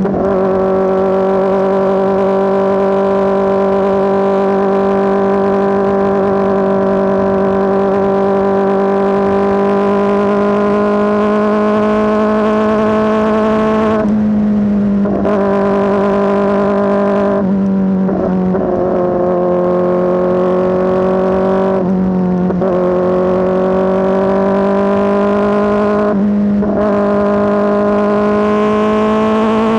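Kawasaki ZX-4RR's inline-four engine through an SC Project S1 exhaust, holding a steady, loud, high buzzing note whose pitch creeps slowly upward. The note is broken by four brief dips, the first about halfway through and the rest every four seconds or so.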